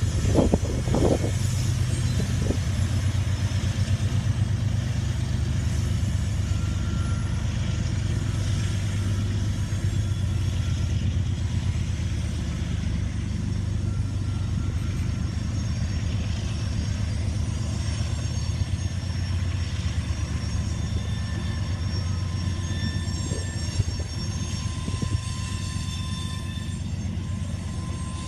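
Freight train cars of a BNSF grain train rolling past on the rails: a steady low rumble, with a few knocks about a second in and again later on.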